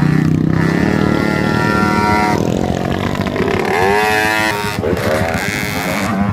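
Motocross dirt bike engines running, with the pitch of a revving engine rising and falling a few seconds in.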